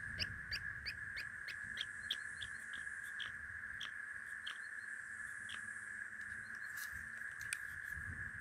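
A bird chirping in short high notes, quick at first and then sparser, over a steady high-pitched hum.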